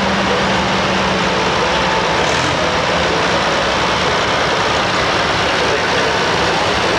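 Antique farm tractor engines running steadily as the tractors drive past.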